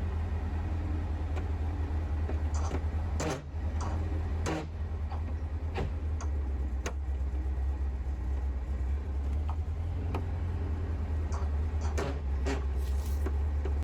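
Air-cooled VW flat-four engine of a 1964 Karmann Ghia running steadily, with scattered sharp clicks and knocks over it and a brief dip about three and a half seconds in.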